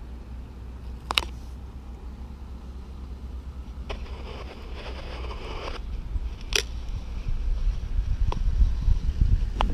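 Low rumble of a railway train, steady at first and growing louder over the last few seconds, with a handful of sharp clicks.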